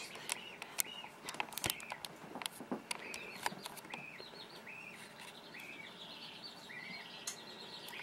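A bird chirping faintly in the background: a run of short rising-and-falling notes, about two a second, with scattered light clicks.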